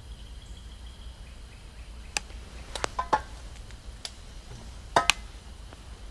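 A handful of short, sharp clicks and knocks, about six in all, scattered over a few seconds, the loudest a quick pair near the end.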